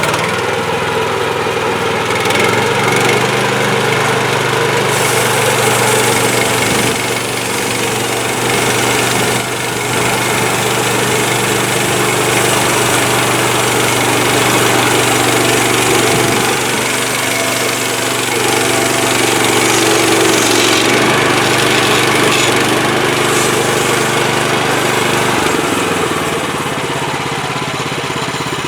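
Gas engine of an HM130MAX portable bandsaw sawmill running steadily. Its pitch drops near the end.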